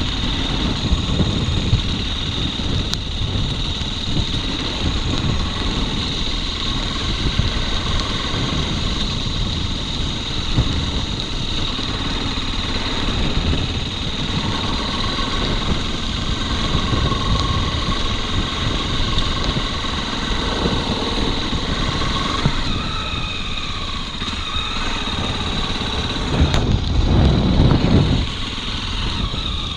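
Motorcycle engine running under way at a fairly steady pace, with a louder low surge near the end.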